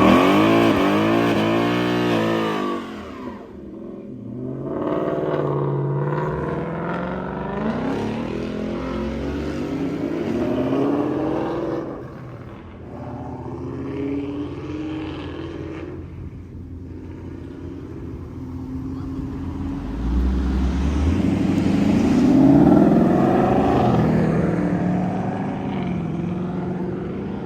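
Car engine with a ProCharger supercharger revving again and again, its pitch sweeping up and falling back with each rev. The loudest revs come at the start and about 22 seconds in.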